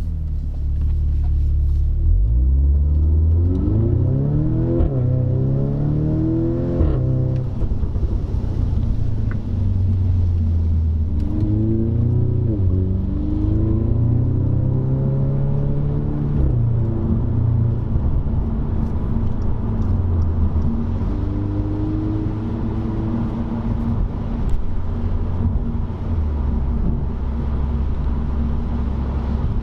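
Audi S3 (8V)'s turbocharged 2.0-litre four-cylinder through a valved stainless cat-back sports exhaust, heard from inside the cabin while driving. It accelerates in the first several seconds, the pitch rising and dropping sharply at gear changes. It pulls up again a few more times, then settles into a steady low drone near the end.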